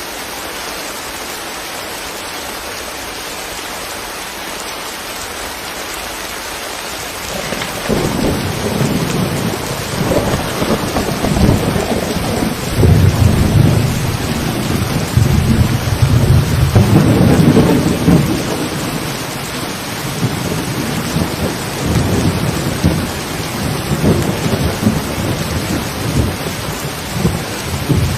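Steady rain falling. About seven seconds in, a deep rolling rumble of thunder sets in over it, swelling to its loudest in the middle and rumbling on in waves to the end.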